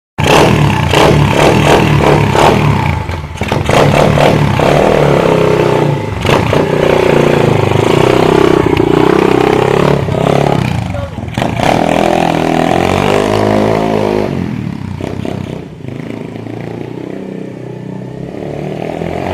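Orion AGB 37 pit bike's single-cylinder four-stroke engine revving up and down as it is ridden, its pitch rising and falling, with some rattling clatter. About two-thirds of the way through it eases off and runs quieter.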